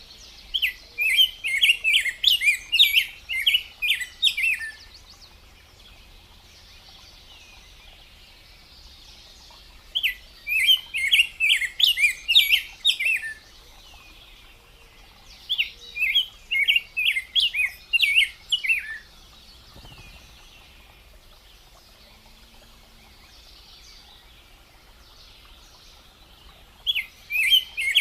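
A bird singing in four bursts of quick, high chirping notes, each burst a few seconds long, separated by pauses of several seconds.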